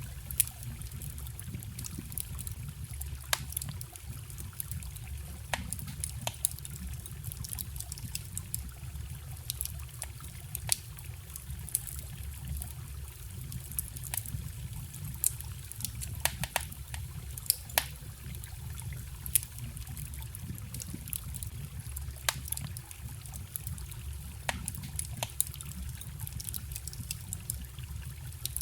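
Wood fire crackling, with irregular sharp pops and snaps, over the steady low rush of a forest stream.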